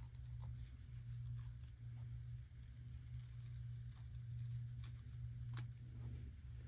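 Steady low hum with a few faint, sharp clicks and taps from small plastic and metal parts of a car radio unit being handled.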